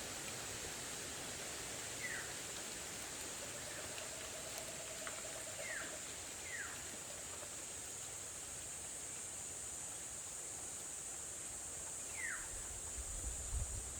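Outdoor ambience with a steady high-pitched hiss. A bird gives short downward-sliding call notes four times. Wind rumbles on the microphone near the end.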